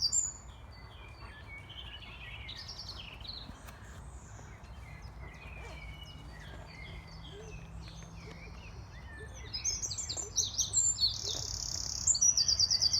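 Eurasian wren singing: loud, rapid trills of repeated high notes. One trill ends right at the start, and the song starts again about ten seconds in and runs to the end. In between, quieter scattered notes of other birds can be heard.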